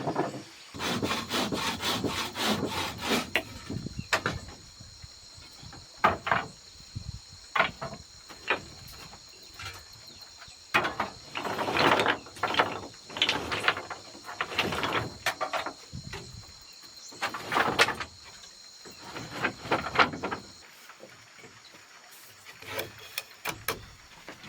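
Wood being worked with a hand tool: scraping strokes in irregular bursts, a quick run of them early on and then single strokes and short runs. A steady high whine runs behind them and stops about three-quarters of the way through.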